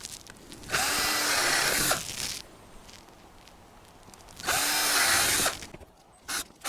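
A power drill driving two screws into wood board, each run about a second long, with the motor's pitch rising and falling under load. A few short trigger blips follow near the end.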